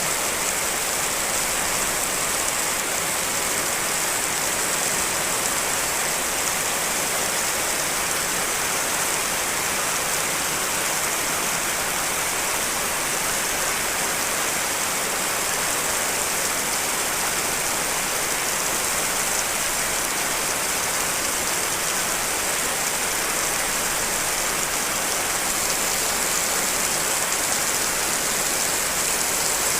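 Steady rain, layered from several rain recordings into a dense, even hiss with no single drops standing out and no thunder.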